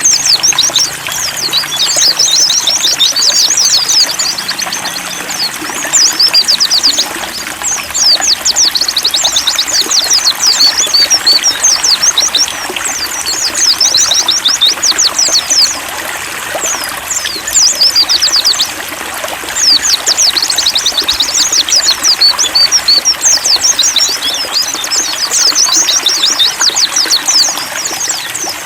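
Pleci (white-eye) birds singing rapid, high twittering phrases, each run lasting a few seconds with short breaks between, over a steady trickle of running water.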